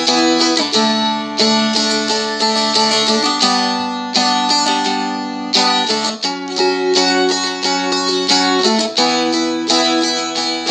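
Seagull Merlin, a four-string strumstick-style dulcimer, strummed steadily through the chorus chords of a simple progression (G, F-sharp barred at the second fret, E barred at the first, D open). The chords change every second or two.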